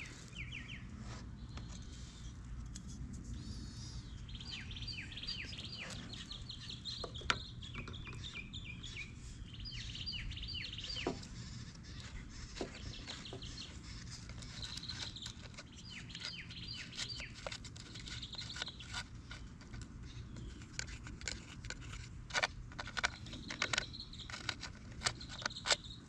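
Songbirds chirping over and over, in quick runs of short down-slurred notes. Scattered light clicks and taps from handling the plastic air-filter housing and its long bolts, more frequent near the end.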